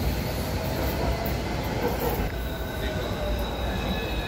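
Train running on rails with a steady rumble, and thin high wheel-squeal tones coming in about halfway through.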